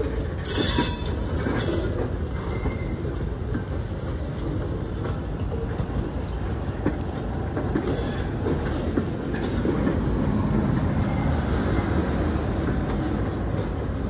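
Freight train of tank cars rolling past: steady rumble of wheels on rail with clacking, and brief high wheel squeal about half a second in and again near eight seconds.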